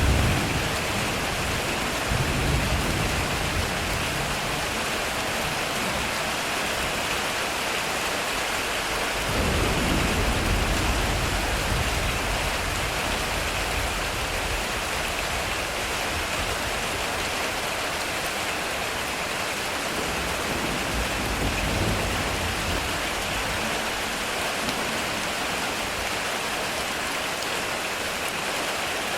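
Heavy rain falling steadily on a metal roof, with low thunder rumbles: one right at the start, a longer roll about nine seconds in lasting a few seconds, and a weaker one past twenty seconds.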